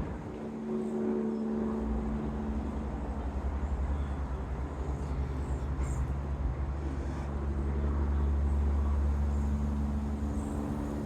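A motor vehicle's engine runs with a steady low rumble, and an engine hum fades out about a second in and comes back later.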